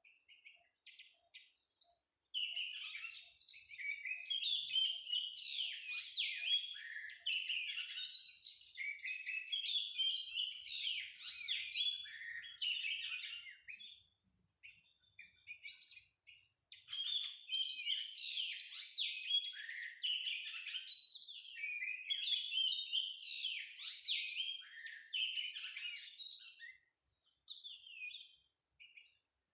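Oriental magpie-robin (kacer) singing a long, varied song of quick whistles and chirps in two extended bursts, with a brief pause about halfway. A faint steady high-pitched whine sits underneath.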